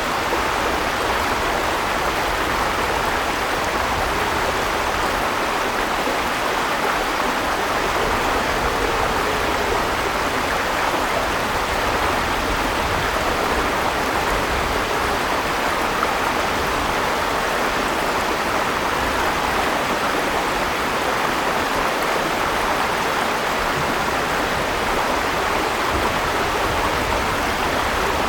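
River water flowing and splashing over rocks, a steady rushing that does not change.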